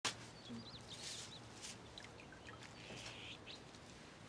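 Quiet outdoor ambience with small birds chirping faintly: a few short, quick high chirps in the first second or so, more scattered later. A brief click sounds right at the start.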